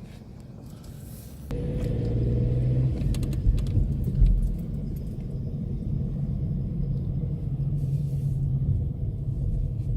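Low, steady rumble of a car on the road, starting suddenly about one and a half seconds in, with a few light clicks and rattles.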